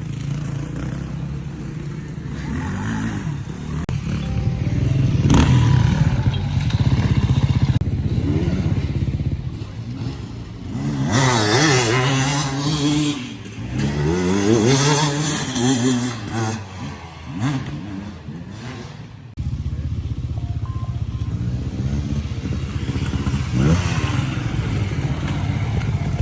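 Dirt bike engine running and revving, its pitch climbing and falling repeatedly as the bike is ridden, then an abrupt change about two-thirds through to a steadier drone.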